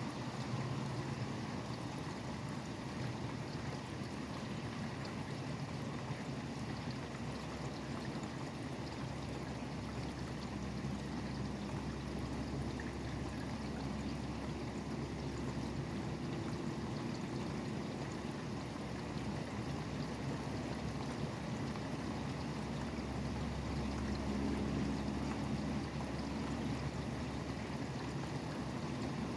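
Steady rain falling, with highway traffic rumbling beneath it; the low traffic rumble swells up and fades twice, about ten seconds in and again near the end.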